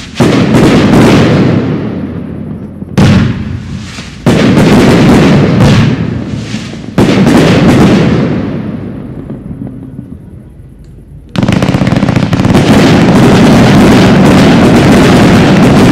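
Aerial fireworks shells bursting, very loud: four separate bangs in the first seven seconds, each trailing off in a long rumble. From about eleven seconds in, a continuous dense barrage of bursts.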